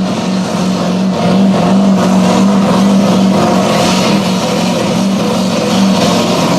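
Pulling truck's engine running hard at steady high revs, holding one pitch with brief dips.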